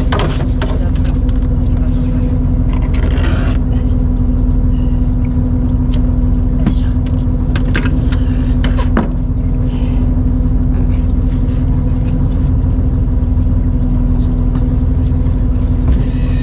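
Fishing boat's engine running with a steady hum and low rumble, with a few short clicks and knocks.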